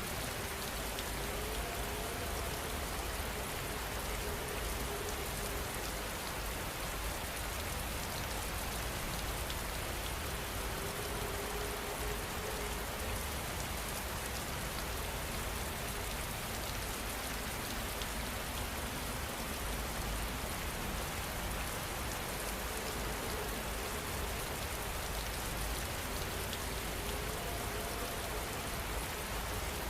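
Steady rain falling, an even, unbroken hiss of drops. A faint low hum comes and goes a few times underneath.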